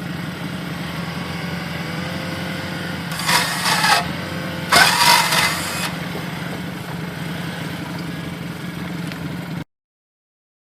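Tracked ATV engine running steadily, with two louder surges of noise about three and five seconds in. The sound stops abruptly near the end.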